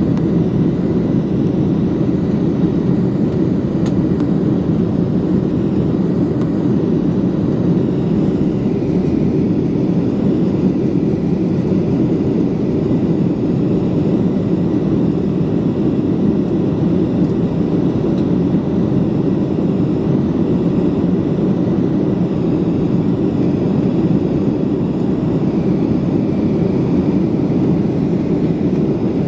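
Steady engine and airflow noise inside the cabin of a Boeing 737 jet airliner in flight, an even low rumble with a faint steady whine above it and no change in level.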